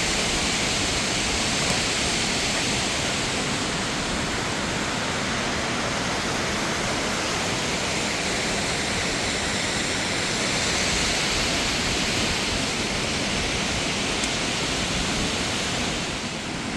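Rushing water, a steady full-range roar of falling or fast-flowing mountain water that holds even throughout.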